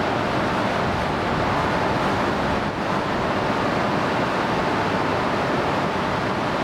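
Steady rushing hum of an E3 series 2000 Shinkansen train set standing at the station platform, its on-board equipment running while it waits to depart.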